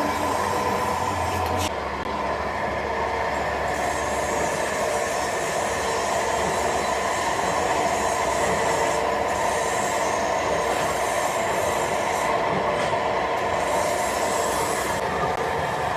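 Factory machinery running steadily: a continuous mechanical noise with several steady high tones over it, and a single sharp click a little under two seconds in.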